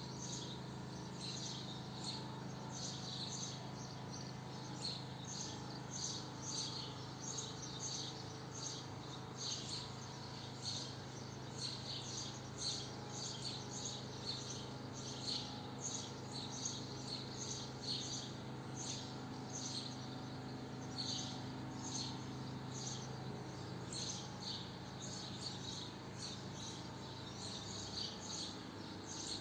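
Swallows twittering: many short high chirps in quick succession, over a steady low hum.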